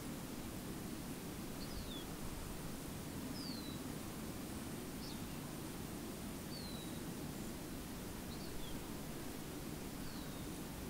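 A small bird repeating a short, high, falling chirp about every second and a half, over steady low background noise.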